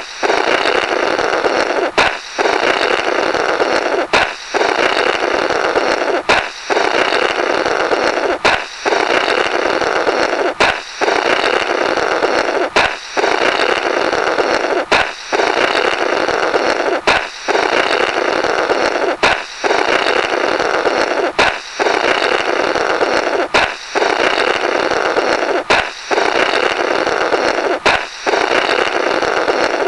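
Comic 'blorrrt' balloon sound effect on a loop: a rubber balloon pops with a sharp crack, then someone blows a long buzzy blow through its remnants. The pair repeats about every two seconds.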